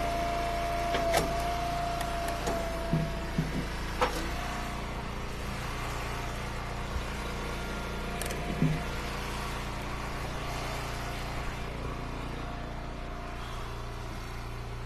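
Engine-driven hydraulic log splitter running steadily. A high whine holds for the first few seconds as the ram drives through a firewood round. A few sharp knocks and short thumps come from the wood.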